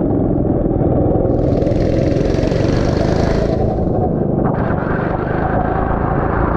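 Onboard sound of a go-kart running on a wet track, heard through a helmet camera: a steady, loud engine and wind rumble. A hiss swells up about a second and a half in and fades before the four-second mark. A rapid crackling sets in about a second later.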